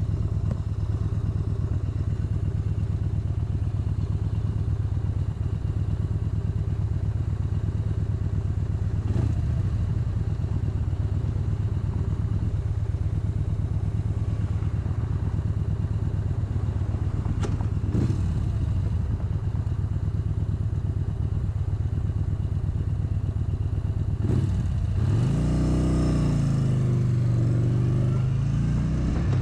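Motorcycle engine running steadily under way, then rising and falling in pitch about 25 seconds in as it revs.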